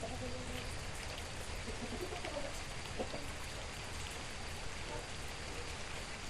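Steady rain falling in an even hiss, with a few faint short pitched sounds in the background.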